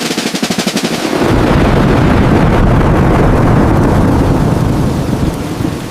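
Thunderclap in a storm. It opens with a rapid crackling rattle, then about a second in a loud, deep rumble rolls on and eases slightly near the end.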